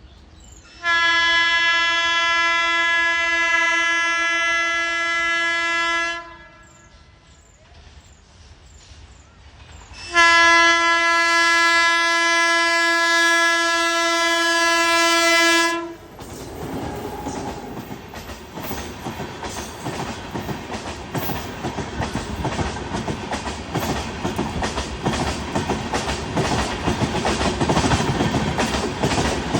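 Locomotive horn of an Indian Railways express train sounding two long steady blasts of about five seconds each, then the train passing at speed, its wheels clattering rapidly over the rail joints and growing louder near the end.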